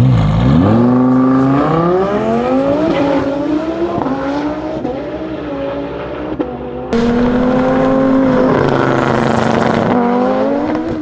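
Twin-turbo Audi R8 V10 engine at full throttle, accelerating hard from a launch and rising in pitch through gear changes. About seven seconds in, it cuts abruptly to another full-throttle run, again climbing and shifting.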